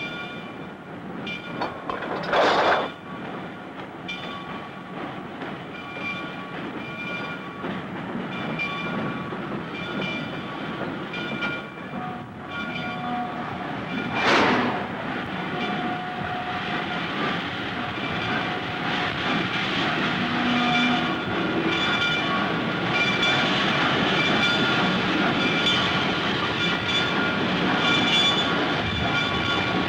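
Freight train rolling by with clickety-clack and steady high squealing tones. There are two loud bangs, about 2.5 s and 14.5 s in, and the sound grows louder toward the end.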